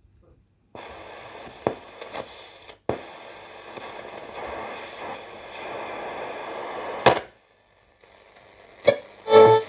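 Roberts R500 radio tuned between stations: hiss with faint steady whistles, cut by sharp clicks and two brief drop-outs, until a station comes in at the very end.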